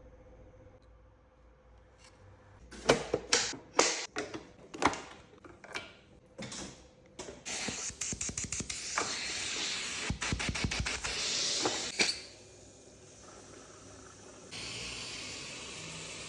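Clicks and knocks of parts being handled and fitted on a Sirona C2 dental unit's assistant block, followed by several seconds of steady hiss that ends with a click, and a quieter hiss near the end.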